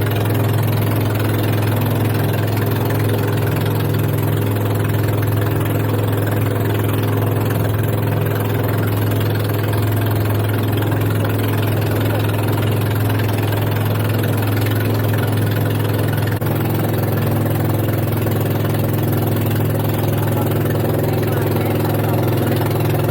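A boat's engine running steadily at a constant speed: an even, unchanging hum with a strong low tone.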